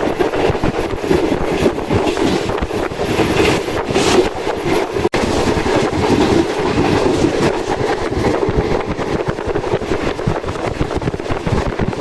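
Passenger express train running at speed, heard from aboard: a steady loud rumble of wheels on rail with irregular clattering knocks, and a momentary gap about five seconds in.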